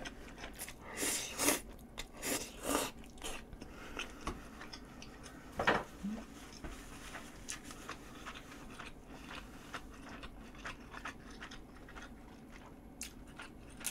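Close-up eating sounds of a mouthful of myeongran (pollock roe) pasta: slurping and chewing noodles, with wet smacks clustered in the first few seconds and one louder smack nearly six seconds in, then fainter chewing.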